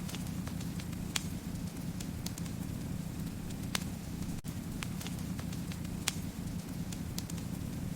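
Wood fire crackling: a steady low rumble of burning with frequent sharp pops and snaps. A few louder pops come about 1, 4 and 6 seconds in.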